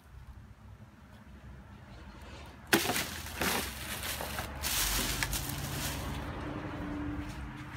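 1997 Ford F-150 Lariat pickup's engine running: a low rumble, a sharp knock about three seconds in, a louder rush of noise a couple of seconds later, then a steady engine note.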